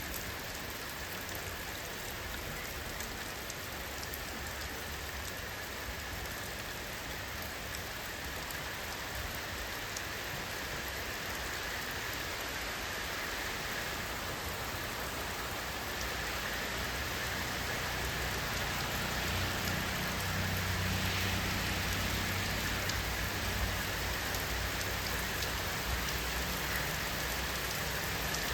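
Steady rainfall, an even patter of drops hitting a surface. A low rumble swells in beneath it during the second half.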